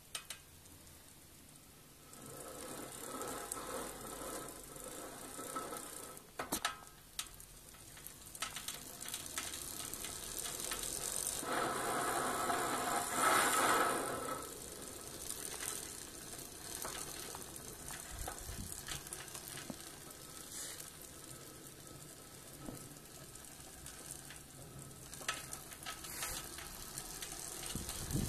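Shimano Deore rear hub on a 700c bicycle wheel turning with a crunchy, rattly clicking. It is loudest around the middle, with a few sharper clicks. The owner says this crunchy clicking comes when pedalling forward, but not when freewheeling or pedalling backwards.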